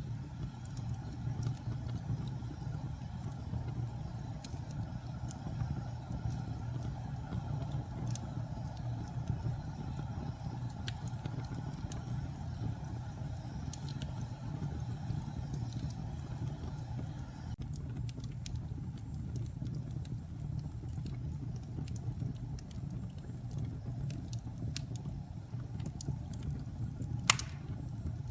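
Wood fire burning in a fireplace: a steady low rumble of flames with scattered small crackles, and one sharper pop near the end.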